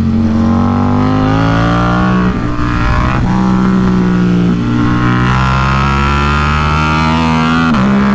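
KTM RC8C's V-twin engine running hard on track, its note rising and falling with the throttle, with a few abrupt changes in pitch.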